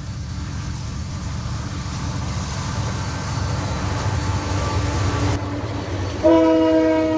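Locomotive approaching with a low rumble that grows steadily louder. About six seconds in, its air horn starts blowing a loud chord of several notes.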